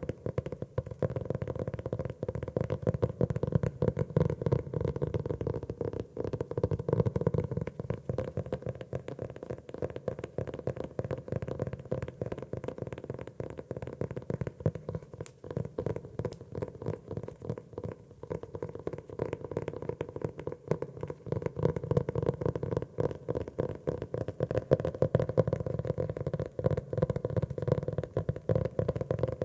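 Fingers tapping rapidly and continuously on a notebook cover, many light dull taps a second.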